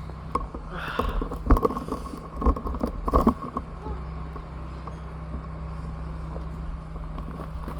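Car engine idling, a steady low hum, with several sharp knocks and clicks in the first few seconds.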